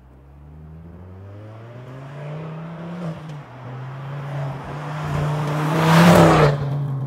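Ford Focus ST225's turbocharged five-cylinder engine accelerating as the car approaches, with a short drop in revs about three seconds in like a gear change. It then passes close by, loudest about six seconds in, and fades.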